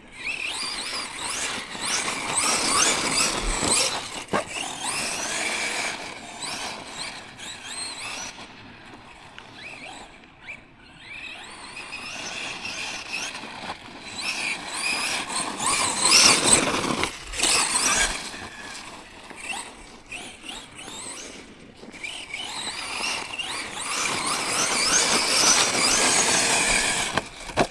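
Tekno MT410 2.0 1/10-scale electric RC monster truck running hard: the motor and drivetrain whine rises and falls with repeated bursts of throttle. The tyres spin on loose ground without much grip.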